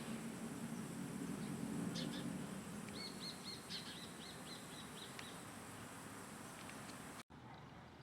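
A small songbird calling: a chirp, then a quick run of about seven short, high repeated notes, with a few scattered faint chirps after.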